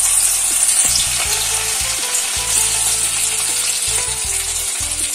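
Spiced chicken mince patty frying in hot oil in a steel kadai: a steady, loud sizzle.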